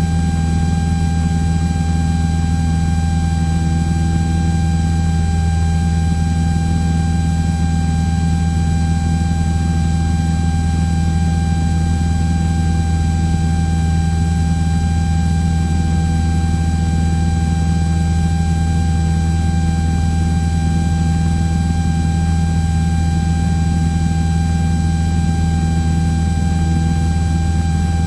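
Cessna 172's piston engine and propeller droning steadily in flight, heard from inside the cockpit, with a steady thin whine over the drone.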